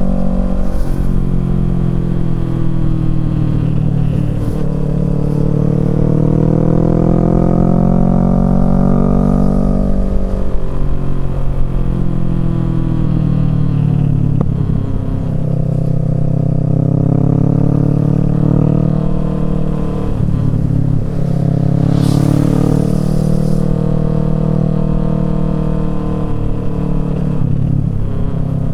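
Kawasaki Z650's parallel-twin engine through a Yoshimura Alpha exhaust, revs rising and falling repeatedly as the bike is ridden through the gears. The pitch drops sharply several times at the shifts or on closing the throttle, and there is a short hiss about two-thirds of the way in.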